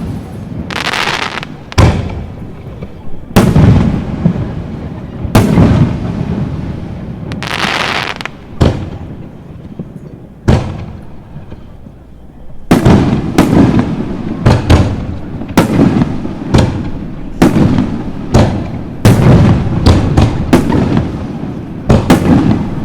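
Aerial fireworks shells bursting with sharp bangs, a couple of seconds apart at first. From about halfway on they come as a rapid barrage of many bangs. A hissing crackle follows some of the earlier bursts.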